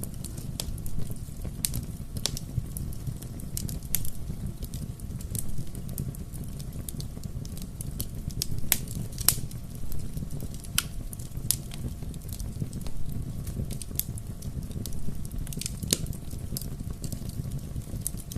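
Bonfire burning: a steady low rumble of flames with sharp, irregular crackles and pops from the burning wood.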